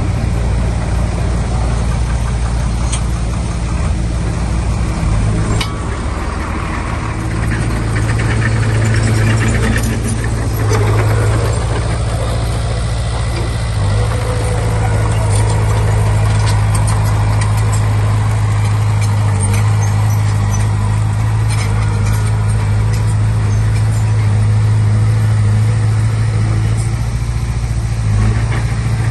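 Diesel engine of a Komatsu D20P bulldozer running steadily, with a deep, even drone. It gets a little louder about seven seconds in. Occasional faint clicks come through.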